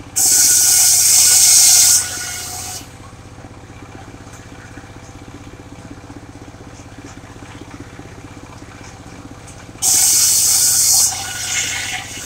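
Engine-driven circular sawmill running steadily, with two loud hissing cuts as the blade rips through sengon wood: one of about two seconds at the start that tails off, and a shorter one about ten seconds in.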